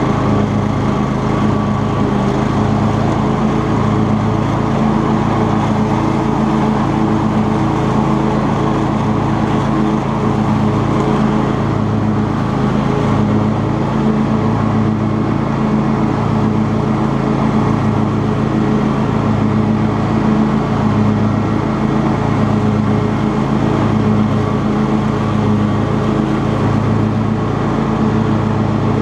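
Cub Cadet XT2 riding lawn tractor's engine running steadily while mowing, with a slight regular pulse in the low hum about every second and a quarter.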